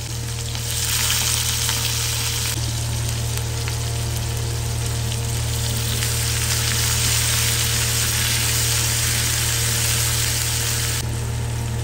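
Sliced onions and whole spices sizzling steadily in hot oil in a nonstick frying pan, stirred with a wooden spatula. A low steady hum runs underneath.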